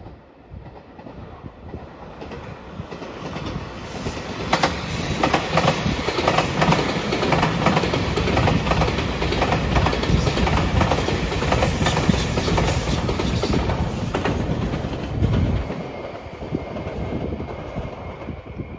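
A passenger train passing close by, its wheels clacking over rail joints. It grows louder over the first few seconds, runs loud with a dense run of clacks, then fades after about fifteen seconds.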